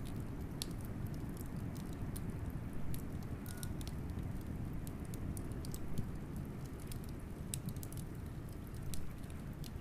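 Wood fire crackling with scattered sharp pops over a steady low rush of blizzard wind.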